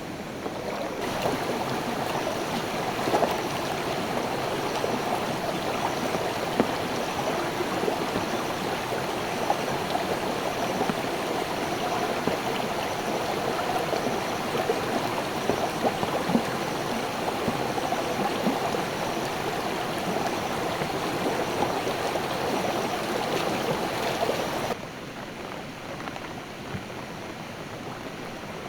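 Stream water rushing and gurgling steadily over rocks; it gets louder about a second in and drops abruptly to a quieter level near the end.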